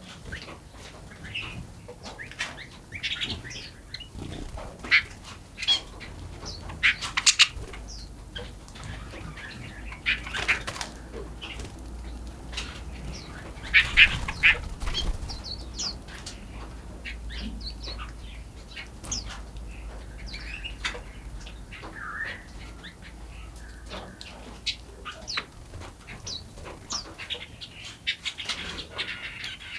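Forest birds chirping and calling, many short sharp notes scattered irregularly, with flutters of wings among them.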